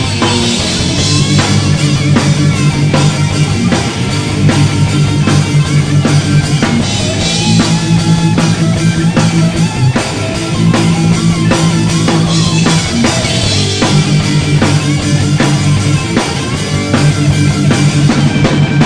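Live rock band playing an instrumental break: electric guitar lead lines bending over held bass notes and a steady drum kit beat.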